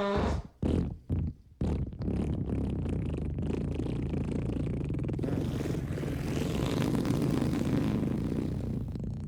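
Fart sound effects: the end of a falling, pitched fart, three short blasts in the next second and a half, then one long, rough, unpitched fart that keeps going.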